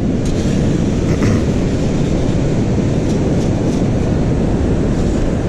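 Strong wind buffeting the microphone: a steady low rumble, with a few faint ticks about a second and three seconds in.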